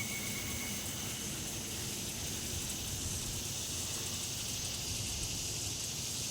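Steady outdoor background noise: an even high hiss or drone with low rustling rumble beneath it, and no call standing out. A faint high tone fades out within the first second.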